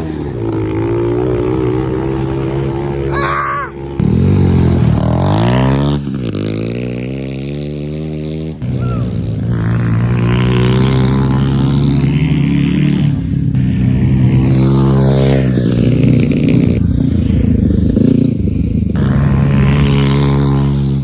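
Small 90cc single-cylinder pit bike engine being ridden hard, its pitch rising and falling again and again as the throttle opens and closes and the gears change, with wind noise over it.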